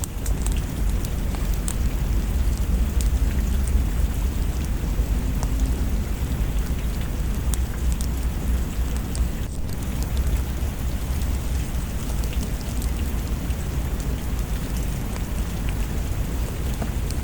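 Steady heavy rain with a continuous deep low rumble, and scattered sharp crackles from a wood fire in a fireplace.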